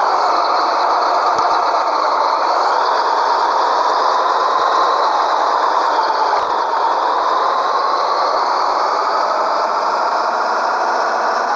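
Scania 113H truck's six-cylinder diesel engine running on the move, a steady drone whose pitch sags about halfway through and then climbs again.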